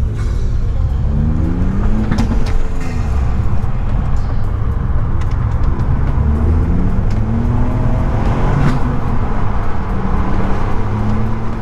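Ford Fiesta Mk8 ST's engine accelerating through the gears, its note climbing and dropping at each shift several times, over a steady low road rumble.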